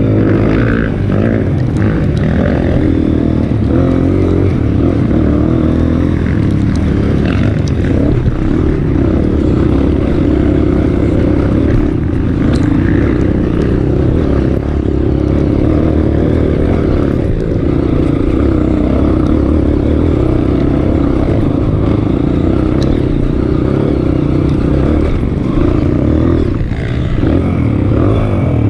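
Honda CRF230F trail bike's single-cylinder four-stroke engine running at fairly steady revs, with small rises and falls in pitch as the throttle changes.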